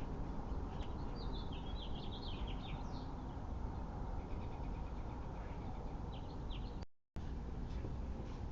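Small songbirds chirping and twittering: a cluster of quick high chirps early on, then a run of short rapid notes, over a steady low outdoor rumble. The sound cuts out completely for a moment about seven seconds in.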